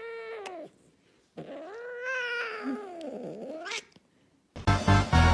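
Cat meowing: a long drawn-out meow trailing off under a second in, then a second long, wavering meow that ends on a sharp rising note. Music starts near the end.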